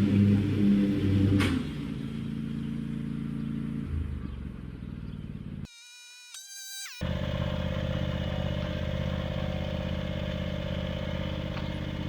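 Cub Cadet 1022 ride-on mower engine running steadily, with a sharp crack about a second and a half in, after which it runs quieter. A brief break with a short tone comes about halfway through, then the engine runs on.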